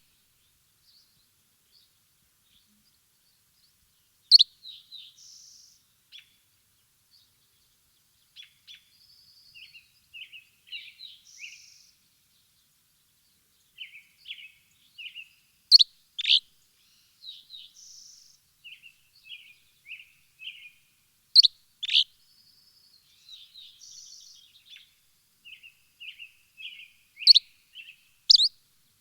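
Small songbirds chirping: scattered short twitters and chirps, broken by a few loud, sharp calls every several seconds.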